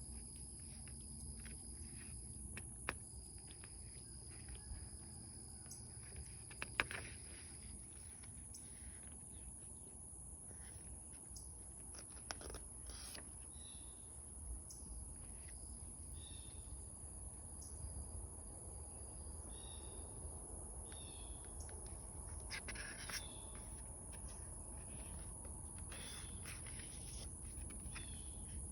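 Outdoor ambience: a steady high-pitched insect drone throughout, a second insect tone dropping out about eight seconds in, and short bird chirps repeating through the middle and later part. Occasional soft clicks and rustles, typical of sketchbook pages being handled.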